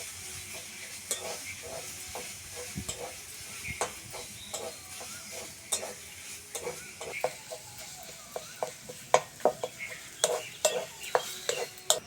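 Fried greens being stirred in a pan: a spatula scraping and clinking against the pan at an irregular pace, over a light sizzle that fades toward the end.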